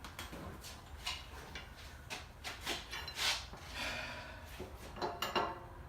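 Scattered knocks, clinks and scraping of metal parts being handled as the pulled LSA V8 engine is fitted onto an engine stand.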